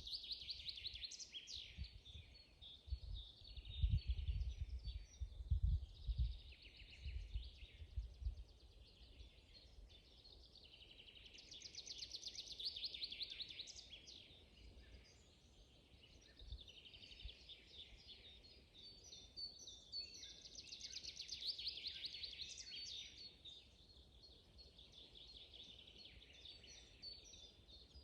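Songbirds singing: several songs of about two seconds each, built of rapid repeated notes, return every several seconds with scattered chirps between. A series of low thumps comes a few seconds in and is the loudest sound.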